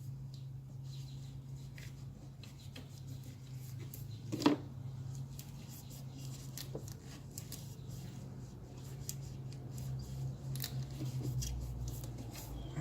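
Scattered small clicks and rubbing from hand work cleaning a throttle body, with one louder knock about four and a half seconds in, over a steady low hum.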